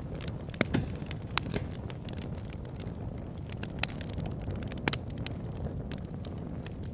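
Wood fire burning in a fireplace: a steady low rumble of flames with irregular sharp crackles and pops, a few louder pops scattered through.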